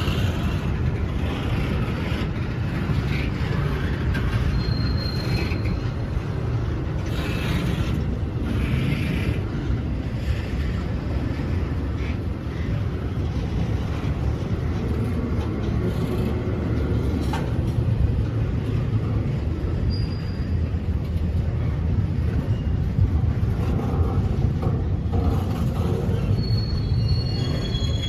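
A train rolling past with a steady rumble of wheels on rail, with brief high-pitched wheel squeals about five seconds in, around twenty seconds in, and several near the end.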